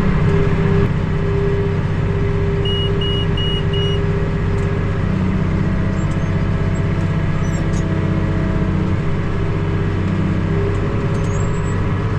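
Tractor engine running steadily under load, heard from inside the cab while it pulls a baler through straw. Four short electronic beeps sound about three seconds in.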